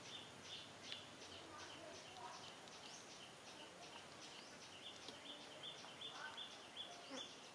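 Faint, rapid bird chirping outdoors: short high chirps repeating evenly about three times a second, with a few fainter calls lower down.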